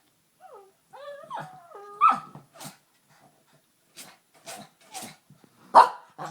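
An agitated dog making odd noises in place of normal barking: whining, yodel-like cries that bend up and down in pitch, then a series of short, breathy huffs, the loudest near the end.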